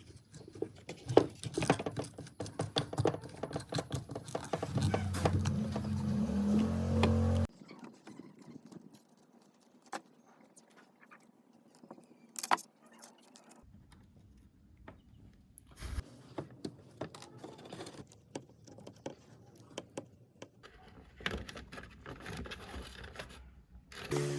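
Small metal parts of a table fan being handled and fitted, with many light clicks and clinks. About five seconds in, a low motor hum starts and then cuts off suddenly a few seconds later.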